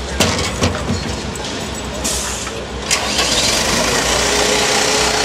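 An engine running with a steady low hum. A few sharp clicks and knocks come in the first second and a short hiss about two seconds in, then the machine noise grows louder and steadier about three seconds in.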